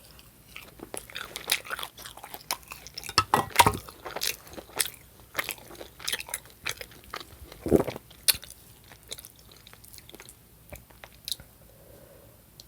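Close-miked chewing and biting of food: a dense run of wet mouth clicks and smacks, thinning out in the last few seconds.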